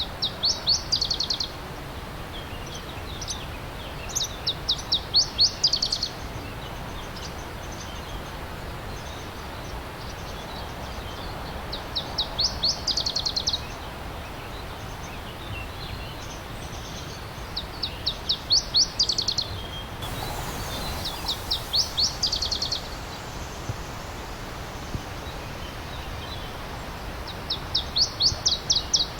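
A songbird repeating the same short song six times, each a quick run of about ten sharp high notes lasting a second or two, over the steady rush of a stream.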